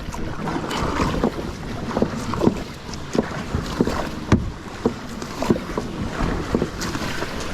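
Kayak moving quickly through shallow water: a steady rush of water with repeated short splashes and knocks against the hull, and wind on the microphone.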